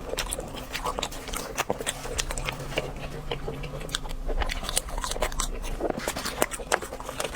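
Close-miked crunching and chewing of crispy fried food, with many irregular crisp crackles as each bite is chewed.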